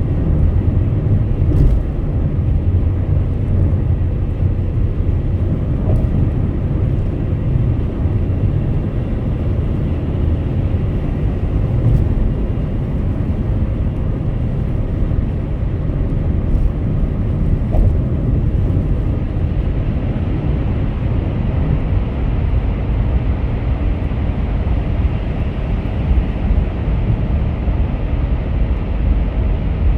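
Steady low rumble of road and engine noise from a car cruising on a highway, with a few faint clicks.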